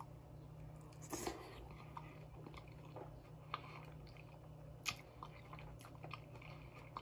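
Close-up chewing of a mouthful of soft hamburger steak, mashed potatoes and gravy: quiet, wet mouth clicks and smacks at irregular intervals, over a steady low hum.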